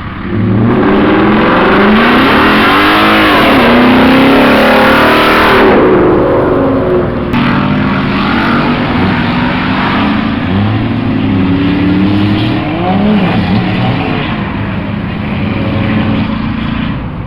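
Car engines revving, their pitch climbing and falling again several times over. The sound is loudest in the first half, changes abruptly about seven seconds in, then carries on with more rises and falls.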